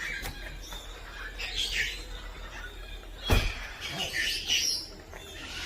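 Birds chirping, with a few short high calls, and a single sharp knock about three seconds in.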